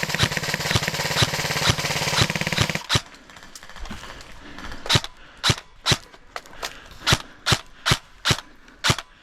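Airsoft guns firing: a continuous full-auto burst rattles for about three seconds and cuts off, then a string of single shots follows at roughly two to three a second.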